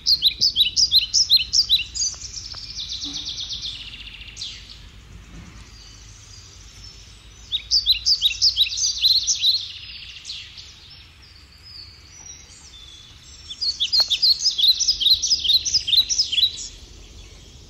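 A bird calling in three bursts of rapid, high chirps, each burst lasting two to three seconds.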